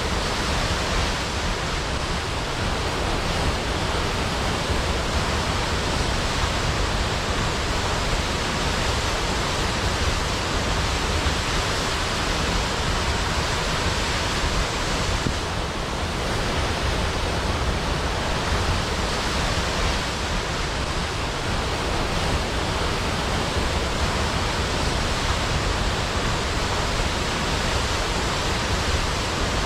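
Waterfall: a steady, unbroken rush of falling water, even across deep and high sounds, with no single splashes standing out.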